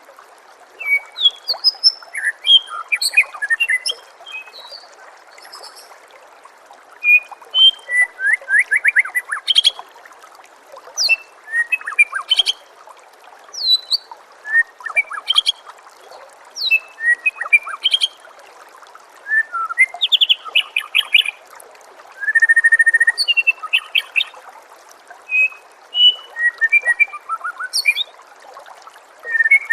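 White-rumped shama (murai batu) singing: a string of varied phrases of quick whistles, rapid trills and chirps, broken by short pauses. Under it runs a steady trickle of running water.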